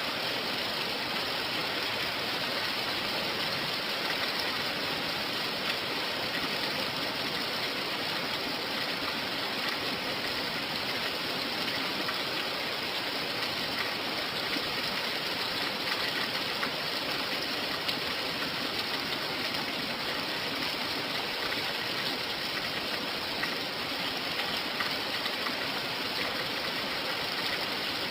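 Steady rain falling, an even hiss of water with a few faint drop ticks.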